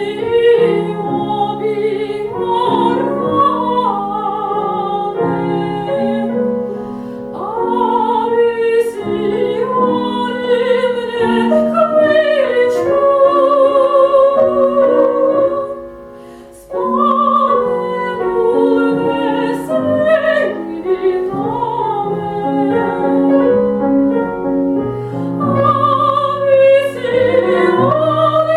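A female classical voice singing with vibrato, accompanied on grand piano. The music drops away briefly about sixteen seconds in, then resumes.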